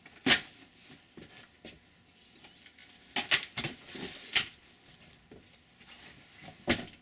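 Cat eating from a dish: irregular sharp clicks and smacks, with a busy cluster around the middle and a couple of loud clicks near the end.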